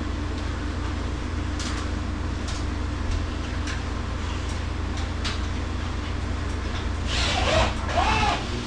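A steady low machine hum, the running refrigeration of the meat cooler, under scattered light clicks and knocks from hand work on the ceiling rail. Near the end comes a louder, rougher scraping or rustling sound lasting about a second.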